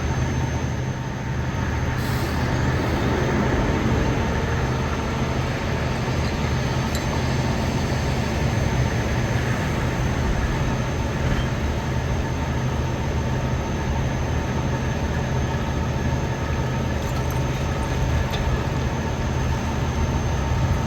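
Heavy diesel trucks idling steadily at close range, a constant low engine hum.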